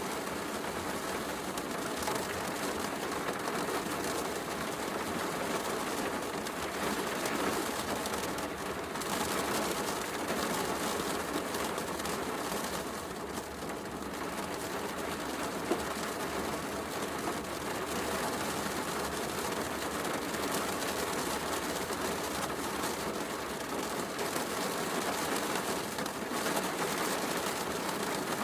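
Steady heavy rain with the faint crackle of a wood fire in a fireplace.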